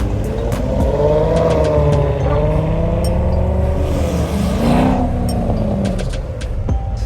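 A car driving past under throttle, its engine note rising and falling in pitch and swelling loudest about four to five seconds in.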